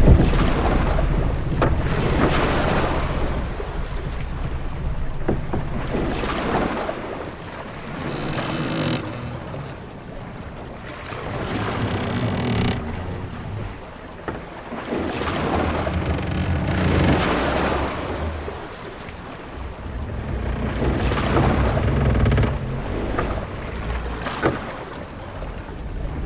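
Ship-at-sea ambience: waves washing against a ship in swells that rise and fall every four or five seconds over a steady low rumble and wind. Two drawn-out creaks come through in the middle.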